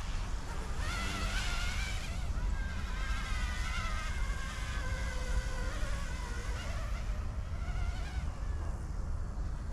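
E150 direct-drive brushless micro RC helicopter in flight, its high motor-and-rotor whine wavering up and down in pitch and fading near the end. A steady low wind rumble on the microphone runs underneath.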